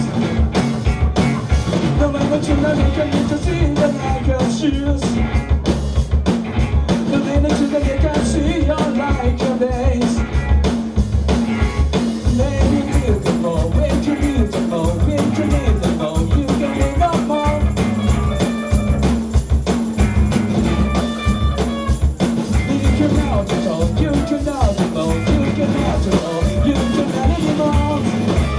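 Live rock band playing a loud, continuous jam: drum kit keeping a fast steady beat under bass and electric guitars.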